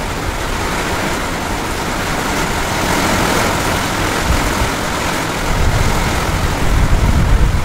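Heavy rain pouring down on a concrete rooftop terrace and the metal roof sheeting overhead, a dense steady hiss. A deep rumble swells near the end.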